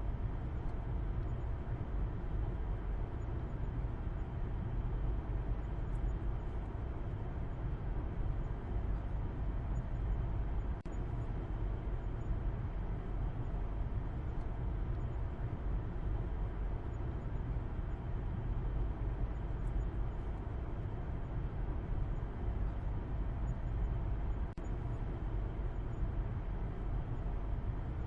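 Car driving at a steady speed: an even, low road-and-engine rumble with no change in pace, dipping twice for an instant.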